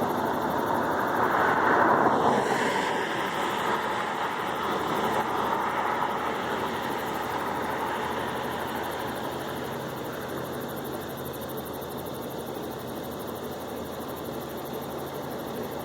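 Aircraft passing overhead: a rushing engine noise at its loudest about two seconds in, then slowly fading away.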